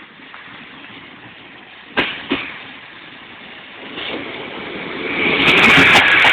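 A Class 153 diesel railcar approaching along the platform, growing steadily louder over the last few seconds. There are two sharp knocks about two seconds in.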